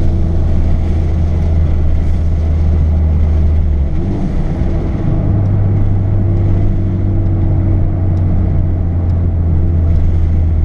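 Hyundai Veloster Turbo's turbocharged four-cylinder, with aftermarket Injen intake and Flowmaster exhaust, heard from inside the cabin while driving: a loud, steady low drone with road and intake noise over it, stepping slightly up in pitch about four seconds in.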